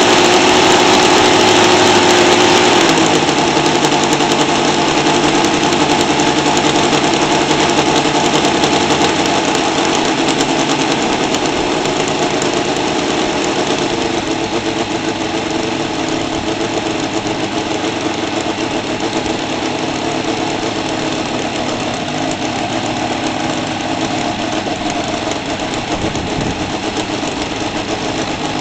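Seidel 7-70 seven-cylinder radial model engine running on methanol glow fuel and turning a 24 x 10 propeller during its break-in. It runs fast at first, then drops to a lower speed about three seconds in and keeps running steadily, gradually getting a little quieter.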